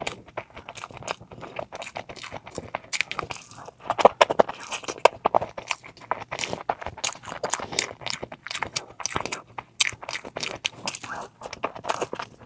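Close-miked eating sounds: chewing and mouth smacks, a dense run of quick clicks with the loudest stretch about four to five seconds in.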